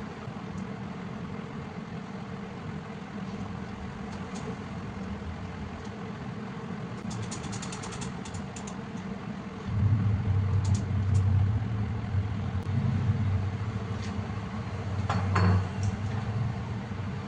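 Milling machine running with a steady low mechanical hum and a run of rapid clicks. About ten seconds in, a louder low drone sets in and continues, with a brief rasping burst a few seconds later.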